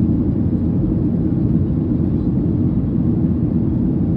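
Steady cabin noise inside a Boeing 737 in flight: a constant low rumble of engines and airflow with no change in level.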